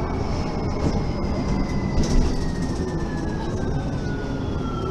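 Mercedes-Benz Citaro facelift city bus slowing down: a high drivetrain whine falls steadily in pitch over the rumble of the engine and road.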